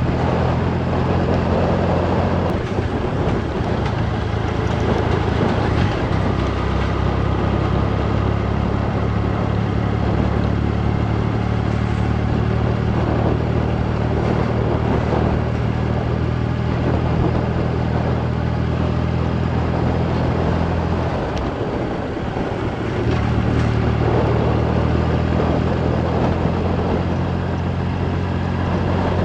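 Motorcycle engine running at a steady pace with wind rush over the onboard microphone. The throttle eases off briefly about two-thirds of the way through, then the engine pulls steadily again.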